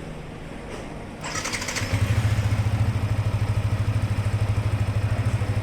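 Yamaha XSR155's single-cylinder four-stroke engine starting: a brief burst of starter noise a little over a second in, then the engine catches and settles into a steady, rapidly pulsing idle.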